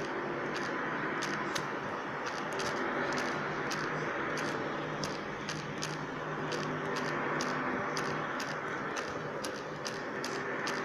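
Unexplained loud droning hum coming from overhead: a steady rushing noise with several low, steady hum tones under it. Sharp faint ticks repeat about twice a second throughout.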